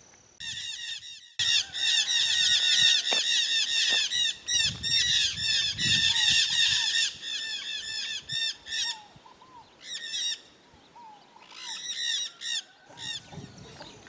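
Birds giving loud, harsh squawking calls in quick series, several notes a second for about six seconds, then in shorter bursts with pauses between.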